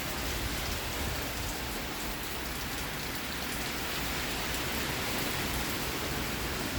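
Heavy rain pouring down steadily in a summer thunderstorm: an even hiss with faint scattered ticks of drops striking nearby surfaces.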